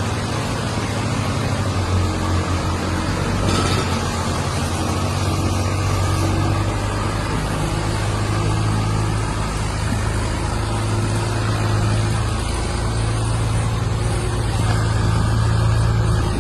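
Heavy vehicle's engine running at a steady speed.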